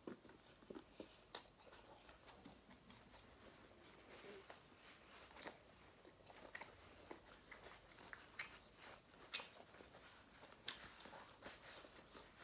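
Faint chewing close to the microphone, with soft, irregular mouth clicks and smacks about every second.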